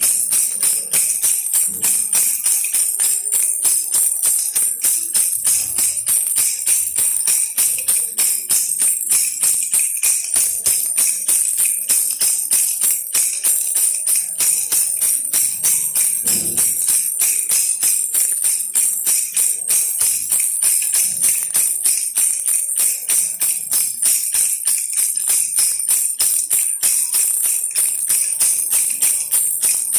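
Baby rattle toy shaken in a quick, even rhythm, a steady run of bright jingling rattles.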